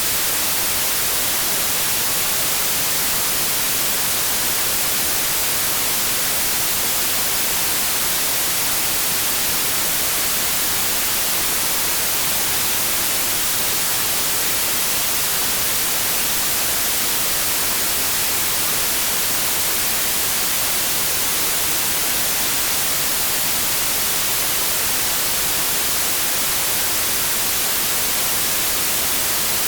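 Steady electronic white noise: an even, unchanging hiss with no tones or breaks, strongest in the high frequencies.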